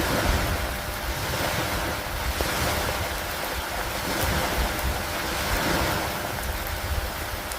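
Steady rain with wind, the hiss swelling and easing every couple of seconds over a low rumble.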